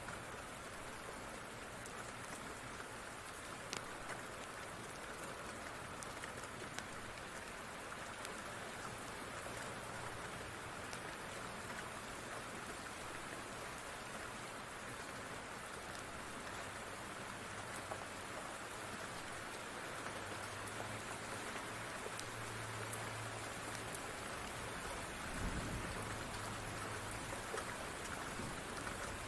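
Steady rain falling, with scattered sharp crackles from a wood fire. A low rumble rises in the last third, with a short low thump about 25 seconds in.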